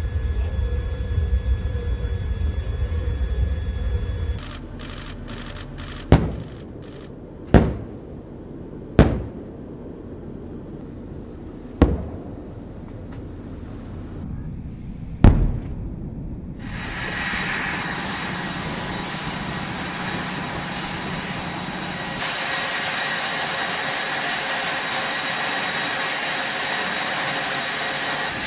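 Low mechanical rumble that cuts off about four seconds in, followed by five sharp bangs spaced one to three seconds apart, then a loud steady rushing noise with a thin high whine that steps up in level near the end.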